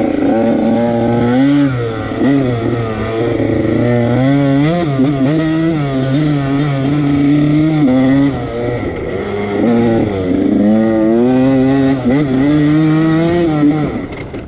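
Husqvarna TC85's 85 cc two-stroke engine revving hard under way. Its pitch climbs and drops several times as the throttle is worked, and it falls away near the end as the throttle is shut.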